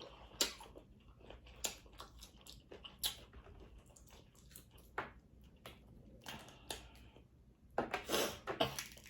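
Person eating a seafood boil: scattered sharp clicks and crunches of shells being handled and cracked, with chewing, and a louder run of eating noises near the end.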